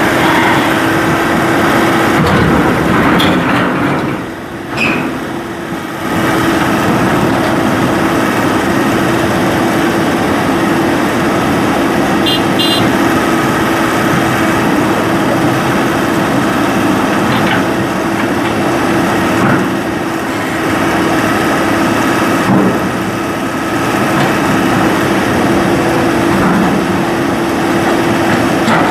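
Diesel engine of an excavator running steadily under work, with a constant hum. The sound dips briefly about five seconds in.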